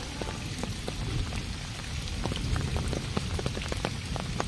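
Steady rain falling, with many separate drops tapping.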